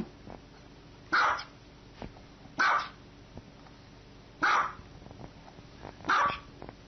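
A dog barking four times, single sharp barks spaced evenly about a second and a half to two seconds apart.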